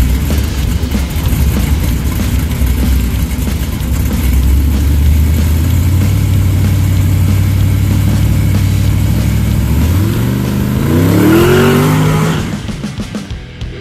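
Supercharged Hemi V8 of a 1940 Willys drag car idling steadily, then rising in pitch as it revs and pulls away about ten seconds in, fading out near the end.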